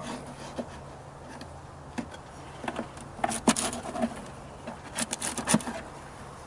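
Honeybees buzzing in a top bar hive, under sharp clicks and knocks of the hive's bars and combs being handled, with a quick run of knocks about five seconds in.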